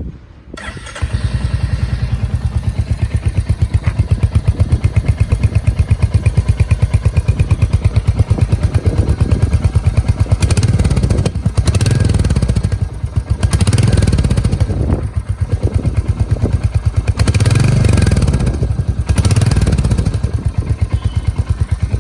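Royal Enfield Hunter 350's 349 cc single-cylinder engine starting about a second in, then idling with a steady pulsing thump through the exhaust. It is revved briefly about four times in the second half.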